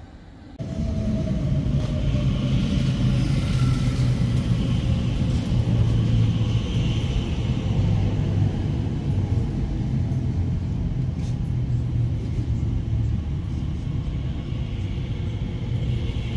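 An Elizabeth Line electric train running with a loud, steady low rumble and hum. It starts suddenly about half a second in, and a faint whine falls in pitch over the first few seconds.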